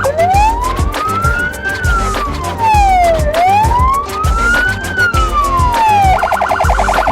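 Electronic emergency siren on a motorcycle escort, switched from a rapid yelp to a slow wail. It makes two long rise-and-fall sweeps, each about three seconds, then snaps back to the rapid yelp near the end.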